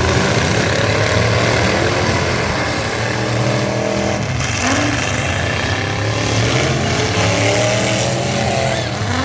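Demolition derby trucks' engines running and revving hard, several at once, their pitch rising and falling.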